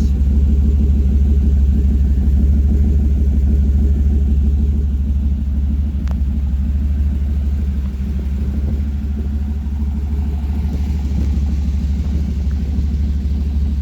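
Chevy small-block 350 V8 (a Fastburn 385 crate engine) idling through Hedman headers and short exhaust pipes, giving a steady deep exhaust rumble.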